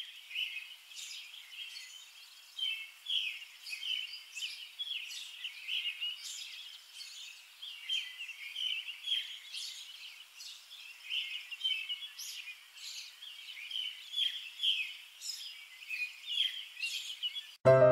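Small birds chirping: a busy, unbroken run of short, overlapping chirps.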